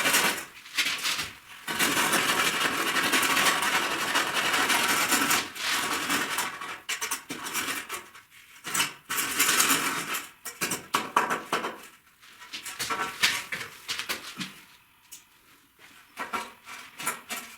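Bricklaying work: rough scraping with many short knocks and clinks of bricks and a trowel, steady for the first few seconds and then in shorter bursts.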